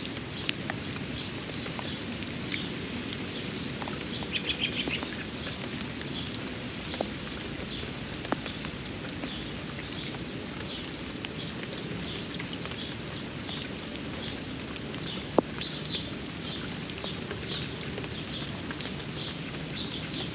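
Steady rain with a small bird chirping over it again and again, about twice a second, and a quick run of louder chirps about four seconds in. Now and then a single sharp drip-like tick lands close by.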